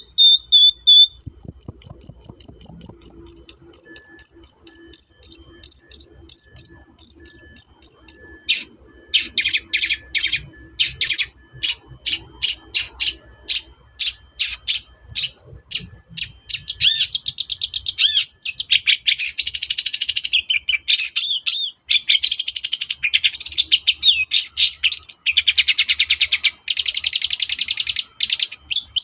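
Long-tailed shrike (cendet) singing loudly. It opens with a fast run of high repeated notes that slowly fall in pitch for about seven seconds, then breaks into quick chattering notes and, in the second half, dense harsh rattling phrases.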